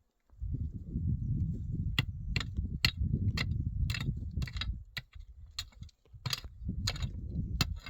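A series of sharp knocks, about two a second, starting about two seconds in, over a low, uneven rumble.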